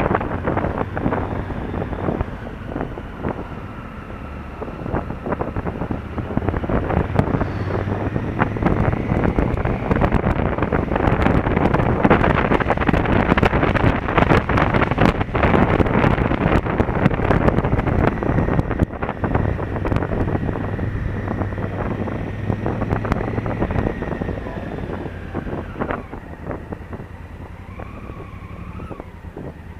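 Honda Africa Twin CRF1000L's parallel-twin engine running under way, buried in heavy wind buffeting on the camera microphone. The wind noise builds through the first half, is loudest in the middle and eases off over the last few seconds.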